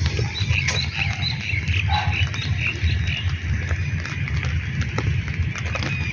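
Birds chirping outdoors, with a quick run of short, repeated chirps in the first half, over a loud, fluttering low rumble and scattered sharp taps.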